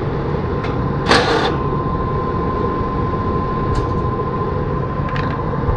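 Steady low running noise of machinery, with a short harsh burst about a second in and a thin steady whine that starts with it and holds until near the end; a few light clicks.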